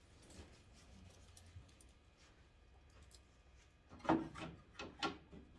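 Hard plastic headlight parts being handled and worked loose: a run of small clicks and knocks, faint at first, with a cluster of louder ones about four seconds in.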